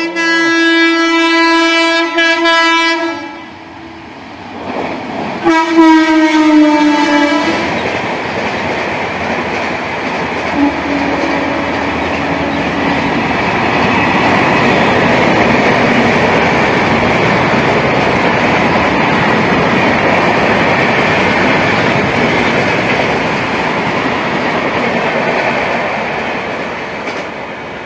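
Indian Railways passenger train passing through a station. The locomotive horn sounds two long blasts, the second dropping slightly in pitch as it goes by. The coaches then run past with a steady rumble and wheel clatter that fades near the end.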